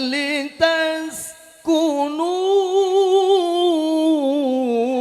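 Male Qur'an reciter (qari) singing an unaccompanied, melismatic tajwid melody. He holds a long ornamented vowel, pauses for a breath about a second in, then draws out another long wavering note that climbs and sinks.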